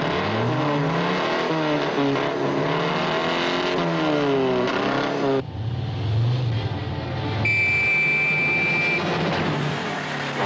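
Two four-cylinder sports car engines, a Triumph TR3's and an MGA's, revving, their pitch rising and falling over and over. The sound breaks off suddenly about five seconds in. A high steady squeal follows for about a second and a half.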